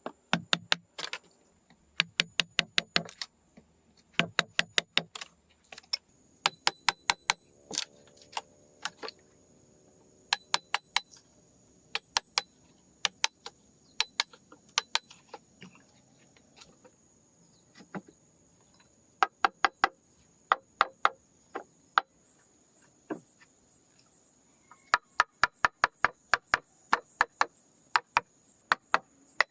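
Quick bursts of sharp taps and clicks, several to a burst, with pauses between, as from hand-tool work. A steady high-pitched whine runs underneath.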